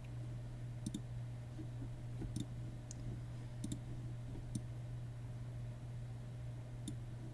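About six sharp, isolated clicks at uneven intervals, over a steady low hum.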